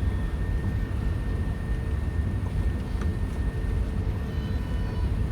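Cabin noise aboard an Airbus A380 on the ground after landing: a steady, deep rumble of engines, airflow and rolling with a faint steady whine over it.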